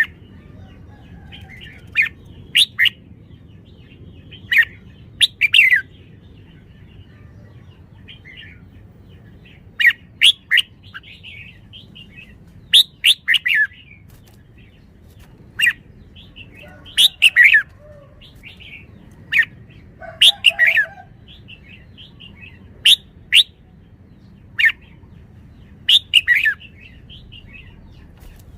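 Red-whiskered bulbul singing short, clear phrases every one to three seconds, over a steady low background hum.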